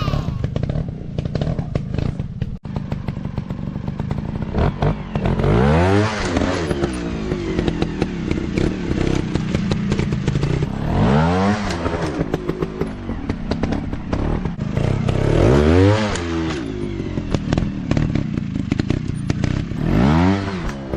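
Dirt bike engine running, with four revs that rise and fall, about five seconds apart, and a scattering of clattering knocks between them.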